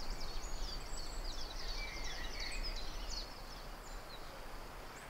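Small birds chirping and twittering in quick, short high calls, thinning out after about three seconds, over a steady low outdoor background noise.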